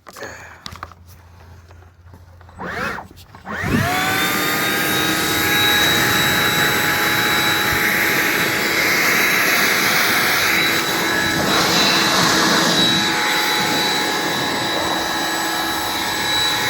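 Hand-held blower starting up about four seconds in, its whine rising quickly to full speed, then running steadily with a loud rush of air.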